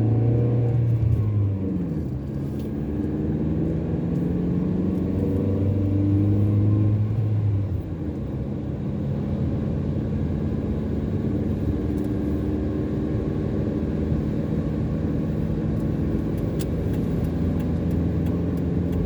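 A car driving on the road, heard from inside: the engine works harder in the first second or so, its pitch shifts, it pulls hard again from about four to seven seconds in, then it settles into a steadier, lower hum over road noise.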